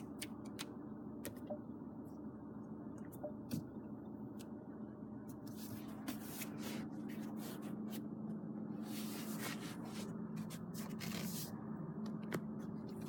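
Steady low hum in the cabin of a Fiat 500L with the vehicle switched on, with scattered light clicks and brief rustles of handling.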